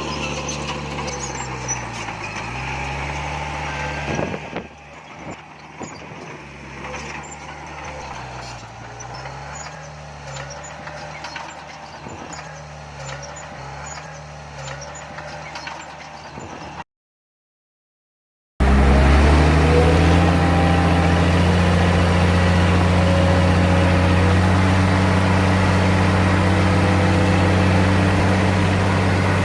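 Heavy diesel earthmoving machinery running, its engine note dipping and recovering again and again as it works under load. It cuts out completely for about two seconds, then comes back louder and steadier, with the pitch rising briefly as it returns.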